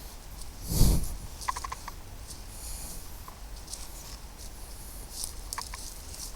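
Footsteps rustling along a woodland path, with a brief low rumble about a second in and a few quick high chirps, in a short run of four and again later.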